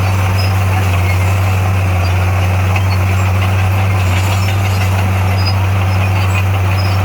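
Bulldozer's diesel engine running steadily, a constant low drone with no change in pitch.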